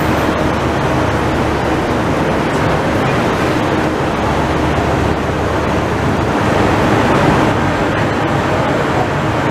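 Israel Railways passenger coaches rolling along the platform: a steady, loud rumble of wheels on rails with a low hum underneath.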